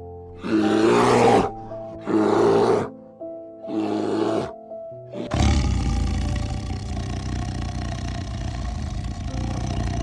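Three short, rough animal roars in quick succession, then a long continuous growl starting about five seconds in, over background music.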